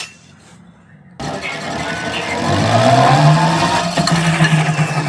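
Electric rickshaw's drive motor and rear wheel spinning up about a second in: a low hum and a higher whine rise in pitch, then hold steady. It is a test run after a broken brake shoe that had been rubbing in the wheel was repaired.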